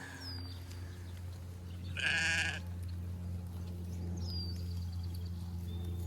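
A sheep bleats once about two seconds in: a single short, wavering bleat. A steady low hum runs underneath.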